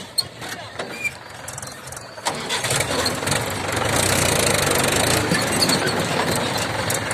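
Tractor engine, quieter with a few clicks at first, then suddenly loud about two seconds in and running steadily.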